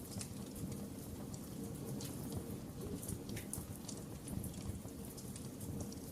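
Wood fire burning in a fireplace, crackling with irregular sharp pops and snaps, several a second, over a steady low rumble of the flames.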